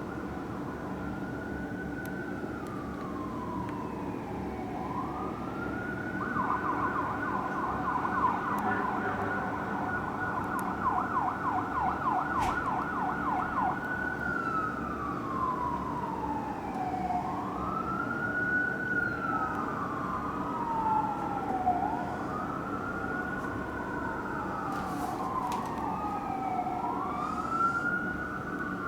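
Electronic sirens of fire apparatus responding code 3: a slow rising-and-falling wail, switching to a fast yelp for several seconds, then back to wail. In the second half a second siren wails alongside, out of step with the first, over the low hum of the trucks' engines.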